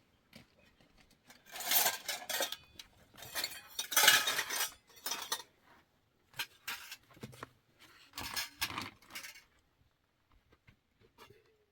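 Dishes and metal utensils clattering and clinking in four bursts of handling, then stopping.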